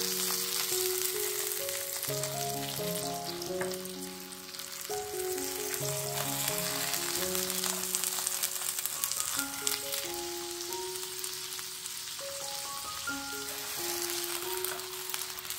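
Oil sizzling and crackling in a frying pan around folded flour tortillas filled with ground beef as they fry. A light melody of background music plays over it.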